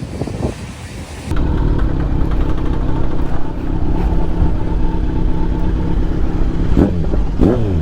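Motorcycle engine running steadily while riding, with wind noise, starting abruptly about a second in. A short wavering sound comes near the end.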